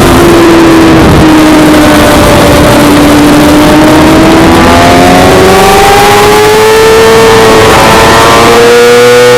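Suzuki GSX-R600 inline-four sport-bike engine at racing revs over a constant rush of noise. Its pitch eases down for the first few seconds, then climbs steadily as the bike accelerates hard.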